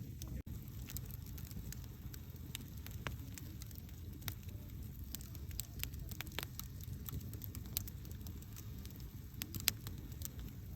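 Wood campfire burning: a steady low rumble of the flames with frequent small crackles and pops, and one sharper pop near the end. The sound drops out for an instant shortly after the start.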